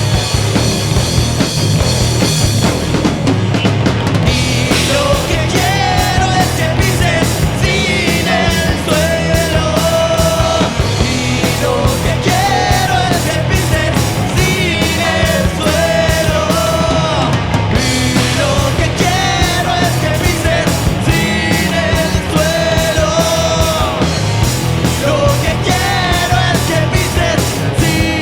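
Rock band playing live: drums, distorted guitars and bass at a steady beat, with a singer's voice entering a few seconds in.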